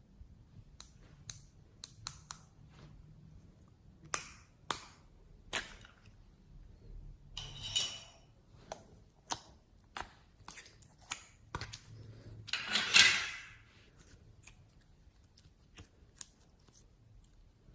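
Slime being squeezed and poked, making a string of sharp clicks and pops. There are two longer crackling squelches, one about halfway through and a louder one about three-quarters of the way in.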